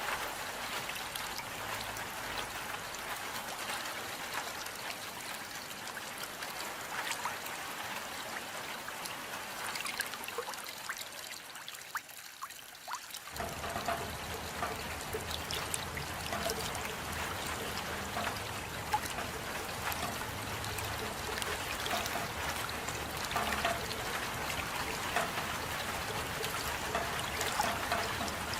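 Steady rain with scattered drips and trickling water. About halfway through the deeper part of the sound drops away for a moment, then returns fuller.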